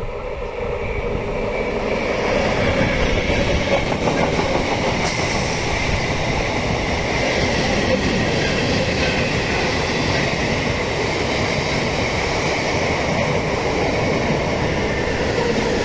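Indian Railways passenger train rolling past close by with a steady rumble of wheels on rail. It builds over the first couple of seconds and then holds steady, with a faint squeal of wheels.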